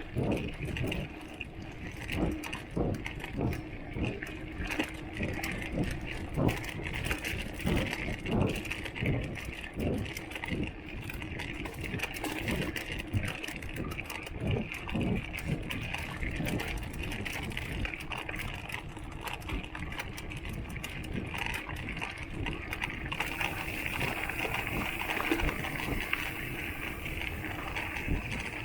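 Giant XTC mountain bike rattling over rough ground: irregular knocks and clatter from the bottle cage and frame, thick for the first half and thinning out later, over steady riding noise.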